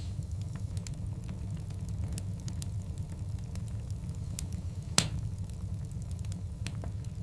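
Wood fire burning in a fireplace: a steady low rumble of the flames with frequent small crackles, and one loud, sharp pop from the logs about five seconds in.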